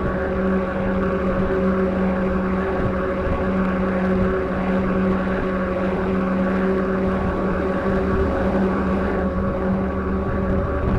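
Steady engine drone, most likely the truck being drafted, with a constant low hum and a few fixed higher tones, over the rush of wind and road noise.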